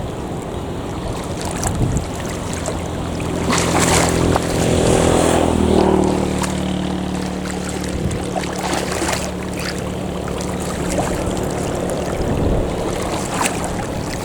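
Airbus A320-232 jet, with IAE V2500 turbofans, passing on approach to land: a steady engine hum with a whine that peaks and drops in pitch about six seconds in as it goes by, then fades. Wind rumbles on the microphone.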